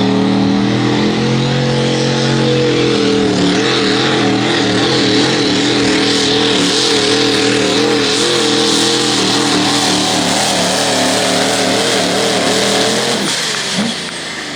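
Pro Stock diesel pickup's engine at full throttle pulling a sled down the track. Its pitch climbs, then wavers rapidly up and down as the truck pulls, and the engine falls away near the end as the run ends.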